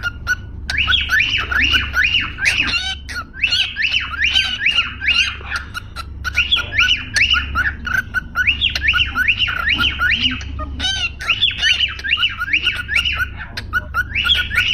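Pet parrots squawking and chirping in fast runs of short rising calls, about three or four a second, with brief pauses between runs. A low steady hum lies underneath.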